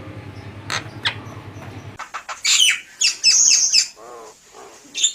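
Javan myna (jalak kebo) calling: a rapid run of loud, harsh falling squawks starting about two seconds in, with a few softer, lower warbled notes near the end. Before the calls, a low steady hum and two sharp clicks.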